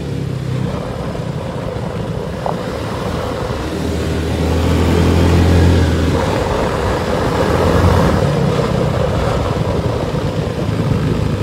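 Car engine running, heard from inside the cabin: a steady low hum that grows louder for a couple of seconds in the middle and again briefly a little later.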